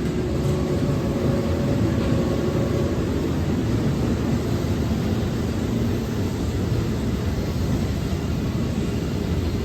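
Keihan 13000-series electric train running through a station without stopping: a steady, heavy rumble, with faint steady tones that fade out over the first three seconds.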